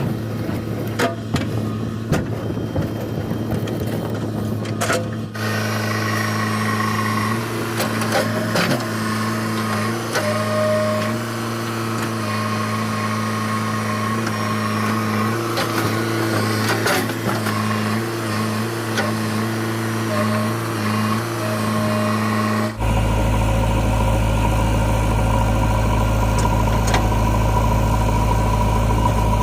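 Diesel engine of a JCB 3DX backhoe loader running steadily, with scattered clicks and knocks. About 23 seconds in, the sound changes suddenly to a deeper, slightly louder steady hum.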